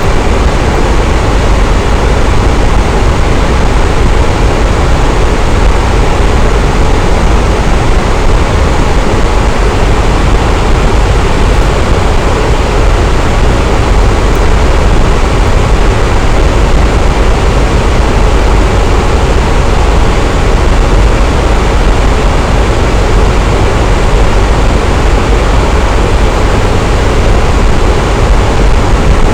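Electric fan running steadily: a constant whooshing rush of moving air with a deep low rumble and no change in speed.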